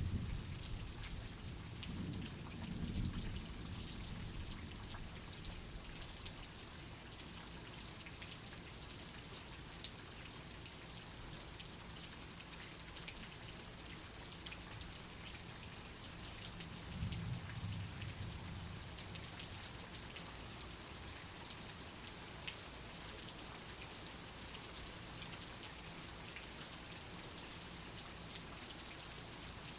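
Steady rain hiss with a crackle of individual drops, and soft low rumbles of distant thunder, one a few seconds in and another just past the middle.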